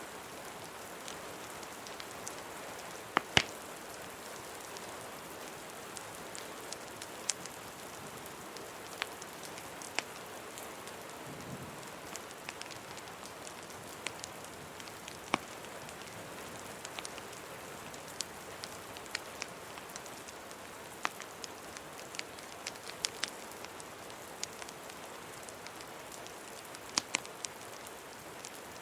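Steady rain falling, with scattered sharp pops and crackles from a wood fire, the loudest a quick pair about three seconds in and another pair near the end.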